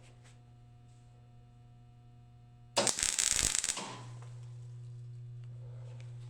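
Electric welding arc crackling for about a second as a short bead of weld is laid on the steel clutch rod, over a steady electrical hum.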